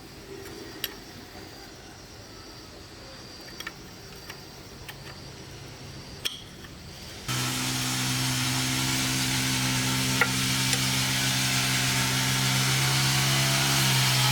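A few light clicks, then about seven seconds in a powered machine starts abruptly and runs steadily with an even hum and a strong hiss.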